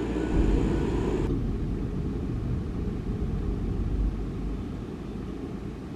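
Heavy diesel engine running with a steady low rumble. A faint high whine stops about a second in.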